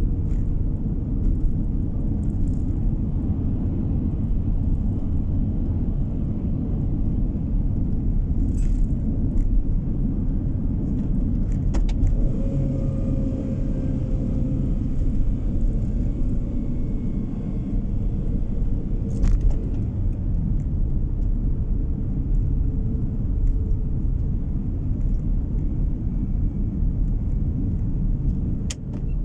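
A car driving, heard from inside the cabin: a steady rumble of engine and tyre road noise, with a few faint clicks.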